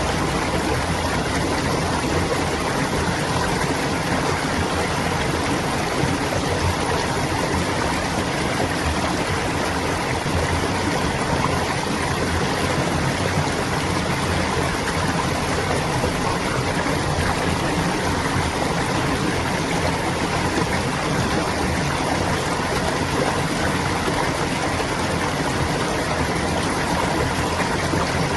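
Clear water babbling and flowing steadily over stones in a stream.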